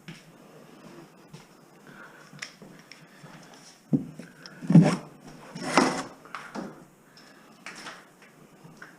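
Scattered small clicks and knocks, with a cluster of louder thumps and scraping knocks from about four to six and a half seconds in.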